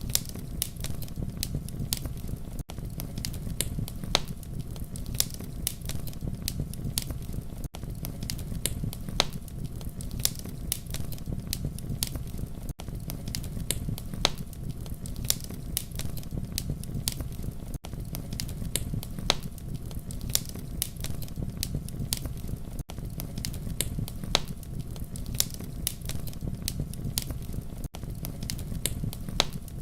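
Wood fire crackling: a steady low rumble of burning with frequent irregular pops and snaps, and a brief dip in level about every five seconds.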